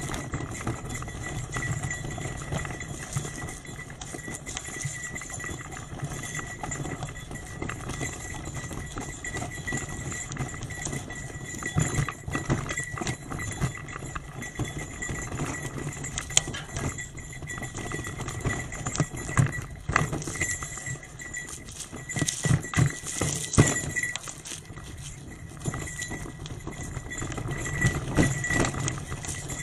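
Bicycle riding over a rough forest road: a steady low rumble of tyres with irregular clattering and knocks from the bike and its camera mount jolting over bumps, heavier in the second half.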